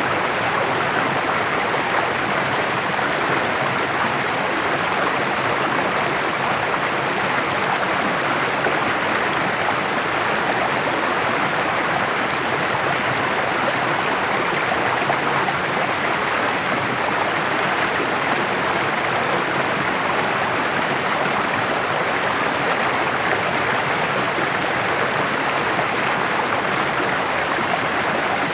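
Small mountain creek babbling and splashing over rocks: a steady, unbroken rush of water.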